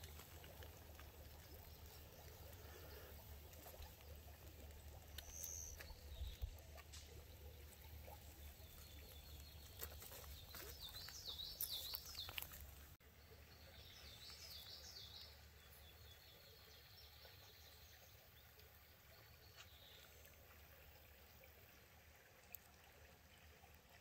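Near silence, with faint bird chirping twice, about ten and fourteen seconds in.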